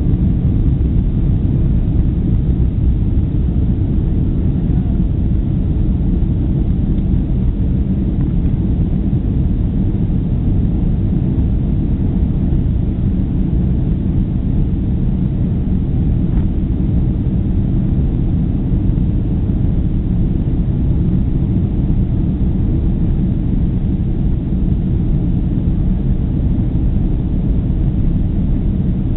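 Passenger jet's engines and airframe giving a loud, deep, steady rumble, heard from aboard the aircraft.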